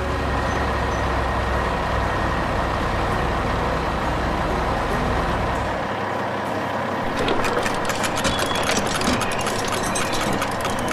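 A heavy construction vehicle's diesel engine running steadily with a deep rumble. The low rumble drops away about six seconds in, and a fast rattling clatter follows.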